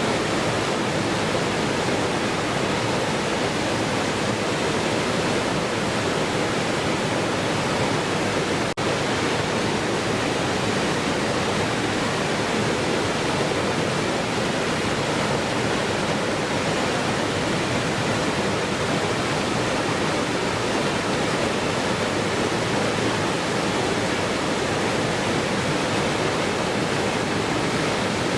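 Waterfall: water falling and rushing in an even, unbroken roar, with a split-second dropout about nine seconds in.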